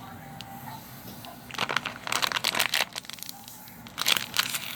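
Crinkling and rustling of a thin plastic balloon pouch being handled, in two bouts of crackly handling noise.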